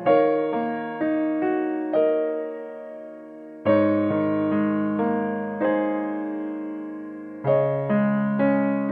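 Background piano music: slow, gentle chords and single notes, each struck and left to ring and fade, with fresh chords about a third of the way and near the end.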